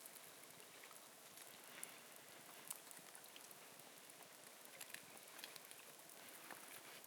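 Near silence: a faint steady hiss with scattered small ticks and clicks.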